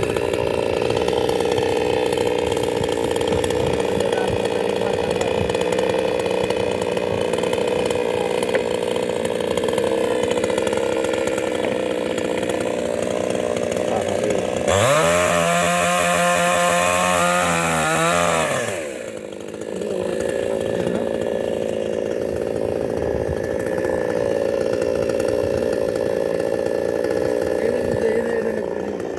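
Small engine running steadily, revved up hard once for about four seconds midway, its pitch rising and then falling back before it settles to its earlier note.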